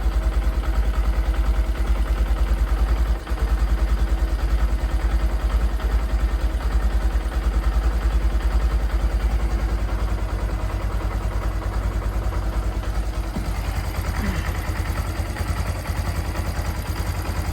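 Honda Grom's replacement engine idling steadily with an even, rapid beat, left to tick over after an ECU reset so it can relearn its idle.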